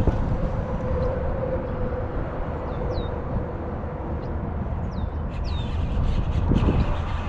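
Strong wind buffeting the microphone, a steady low rumble throughout. A few short, high, falling chirps come through faintly around the middle, and some light clicks near the end.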